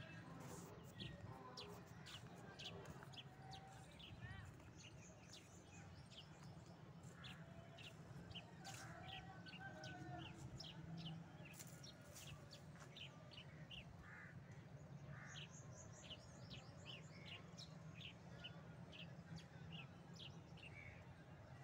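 Birds chirping faintly: many short, high chirps repeated throughout.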